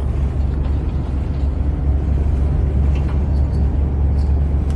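Steady low drone of a semi-truck's diesel engine and road noise, heard inside the cab while driving.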